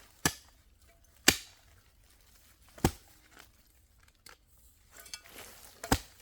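Four sharp single strikes at uneven spacing, the second the loudest, with quiet between them.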